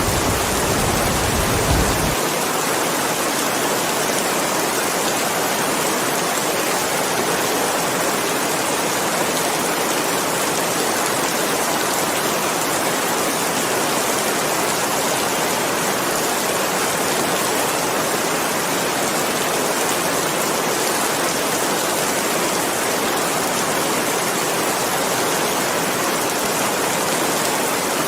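Steady heavy rain, an even unbroken hiss. A low thunder rumble runs under it at first and cuts off abruptly about two seconds in.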